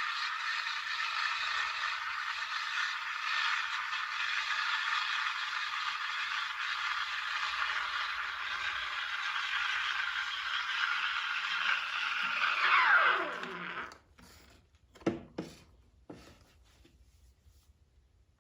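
Espresso machine steam wand hissing steadily while frothing milk in a pitcher, the steam falling in pitch and dying away about 13 seconds in as it is shut off. Two short knocks follow a second or two later.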